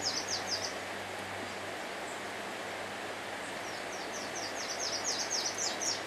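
Steady hiss of forest background with a small bird singing a fast series of high, down-slurred notes, briefly at the start and again for about two seconds near the end.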